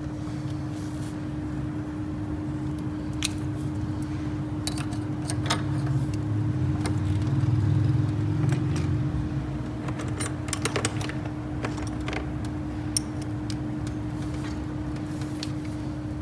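A machine running with a steady low drone and a constant hum, growing a little louder about halfway through, with scattered light metallic clicks and clinks over it.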